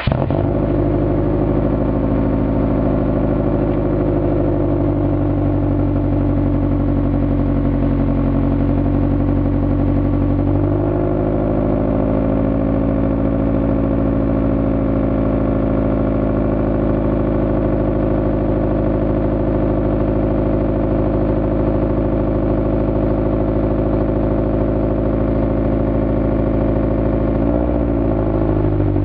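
Subaru SG9 Forester's turbocharged flat-four idling steadily through a full titanium GDB Impreza exhaust, just after starting. The idle settles to a slightly lower pitch about ten seconds in, and there is a short blip of the throttle near the end.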